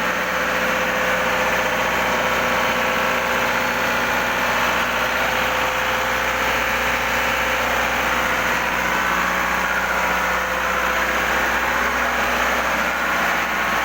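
Engine-room machinery running: a loud, steady drone with a constant hum.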